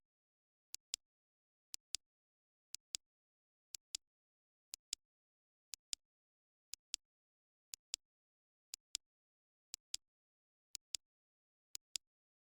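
Timer ticking once a second, each tick a quick double click, with silence between the ticks.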